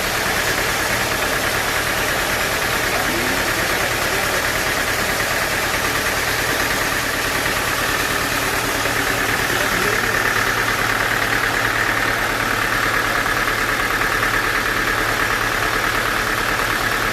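Sawmill machinery running steadily, a continuous mechanical drone that grows somewhat brighter and louder in its upper pitch from about ten seconds in.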